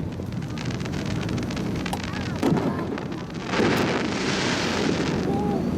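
Fireworks going off: a few sharp booms, then about two seconds of dense crackling about halfway through.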